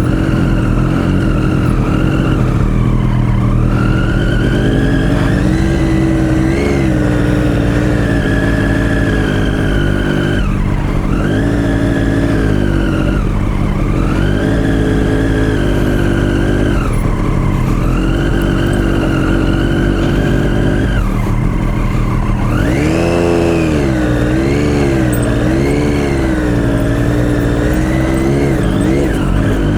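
Motorcycle engine under way, its revs climbing and dropping again and again as the throttle is opened and closed, with a run of quick up-and-down blips near the end. A steady low rumble lies underneath.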